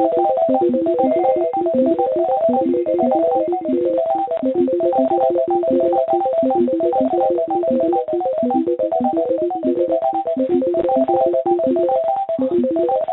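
Call-flood audio of electronic blips and blops: short synthesized beep notes hopping quickly between a few pitches in a fast, unbroken run.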